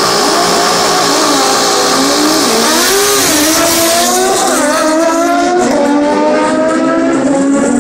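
Drag-racing motorcycles at full throttle down the strip, engine notes climbing and dropping back at each gear shift, several shifts in a row.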